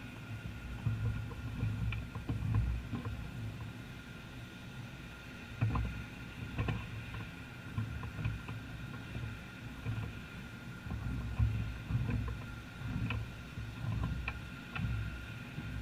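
Cessna Skyhawk's piston engine and propeller running, heard from inside the cabin as a steady drone with an uneven low rumble, irregular thumps and a few light clicks.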